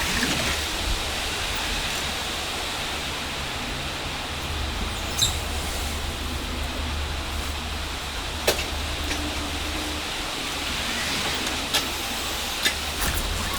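Steady rushing noise with a low rumble underneath, broken by a few sharp knocks.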